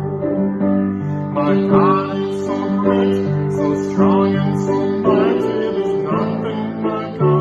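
Acoustic guitar strummed in steady chords with a voice singing a song over it.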